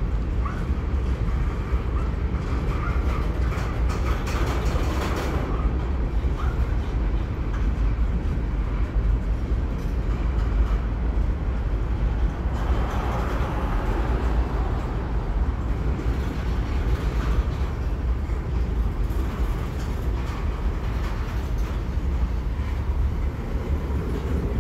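Freight train of covered hopper and tank cars rolling past close by: a steady low rumble of steel wheels on the rails.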